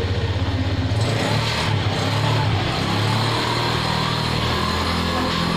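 A motor vehicle engine running steadily, its note changing about a second in.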